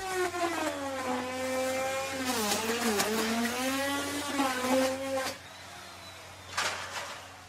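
Electric wood router cutting wood, its high motor whine sagging in pitch under load in the middle and recovering. The whine falls away after about five seconds, with a brief burst of cutting noise near the end.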